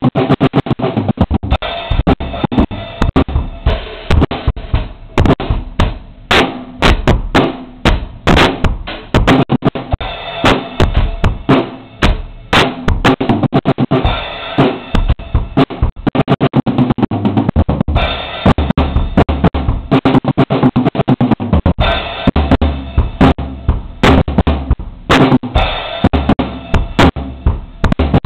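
Drum kit being played, bass drum and snare strokes several a second with busier stretches, recorded through a low-quality camera microphone that dulls the top end.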